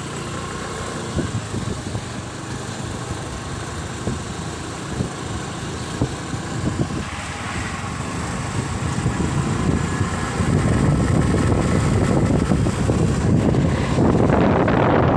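Motorcycle engine running during a ride, with road and wind noise growing louder from about ten seconds in as the bike picks up speed.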